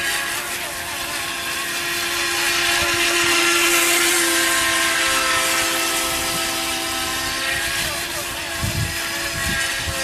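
FT007 mini RC racing boat's 370 electric motor and propeller running at speed, a steady high whine over a hiss. It grows louder about three seconds in and eases off again.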